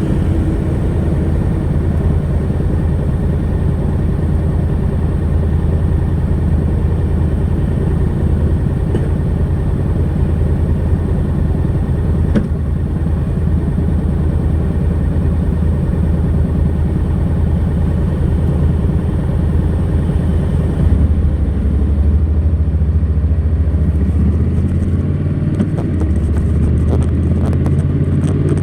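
Honda NC700X's 670 cc parallel-twin engine running through its stock exhaust as the motorcycle is ridden. It holds a steady note with road and wind noise for most of the stretch, changes note and loses some hiss about 21 seconds in, and rises in pitch near the end as it accelerates.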